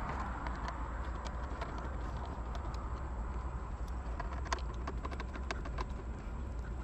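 Scattered light clicks and taps of hand work on car parts, irregular and uneven, over a steady low rumble.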